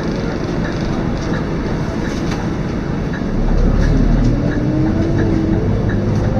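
Onboard a Scania K230UB single-deck bus: its diesel engine runs steadily, then about three seconds in it gets louder, with a whine rising in pitch and then holding, as the bus accelerates.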